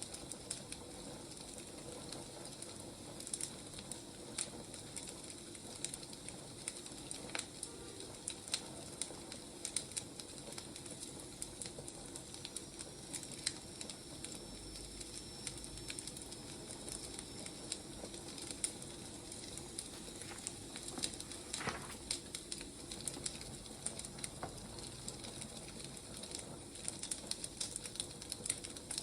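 Burning firewood crackling, with irregular sharp pops over a steady low hiss.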